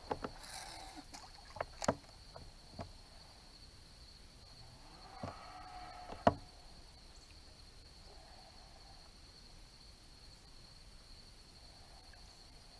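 A kayak on the water: several sharp knocks against the hull and light splashing in the first six or seven seconds, then only faint lapping.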